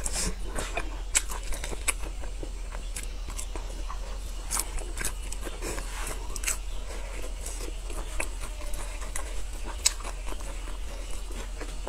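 Close-miked chewing of grilled sausage, with many small wet mouth clicks and smacks scattered throughout.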